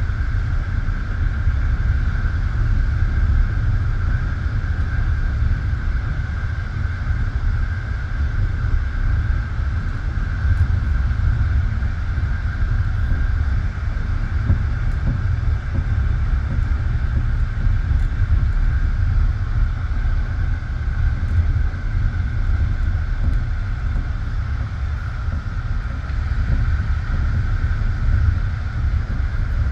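Moving passenger train heard from inside the carriage: a steady, loud rumble of the wheels on the rails, with a steady higher-pitched hum over it and no distinct rail-joint clacks.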